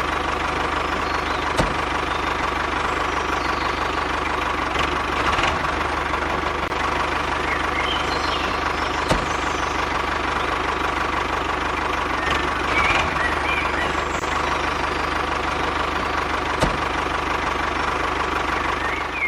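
A small motor running steadily, with a few sharp clicks.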